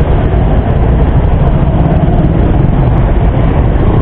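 Suzuki Raider 150 carburetted single-cylinder motorcycle engine running at low speed in stop-and-go traffic, a loud steady rumble heard from the rider's seat.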